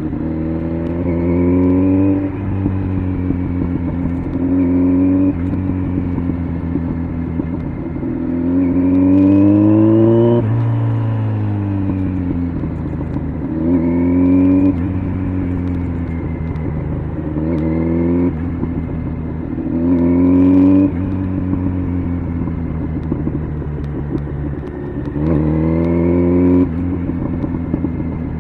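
Kawasaki Z900's inline-four engine through an LCI aftermarket exhaust, accelerating hard and shifting up through the gears: the pitch rises, drops at each shift and climbs again. Around the middle it falls away as the bike slows, then pulls up again several more times.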